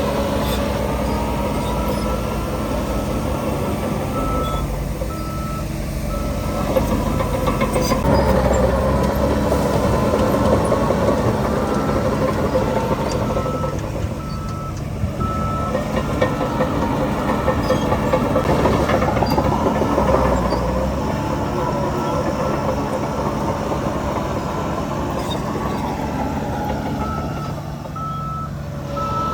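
Heavy diesel machinery running, its engine note rising and falling under load, with a reversing alarm beeping in three spells.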